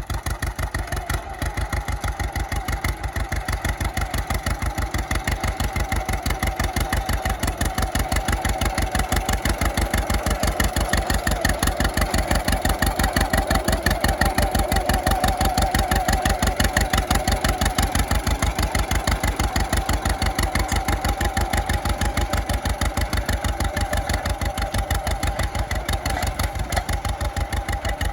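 1936 John Deere B tractor's two-cylinder engine running steadily, with the even popping exhaust beat of a 'Johnny Popper'. It swells a little louder in the middle, then eases back.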